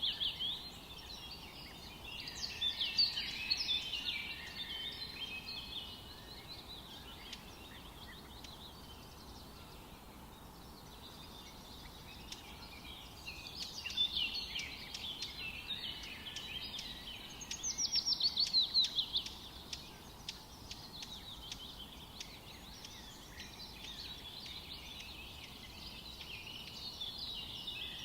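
Forest birds singing in bursts of chirps and trills over a faint steady background hiss. Partway through there is a louder run of quick repeated notes.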